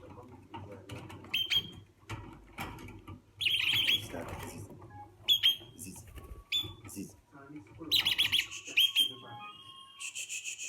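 Red-rumped parrots calling: bursts of short, sharp chirps, with a longer held whistle near the end.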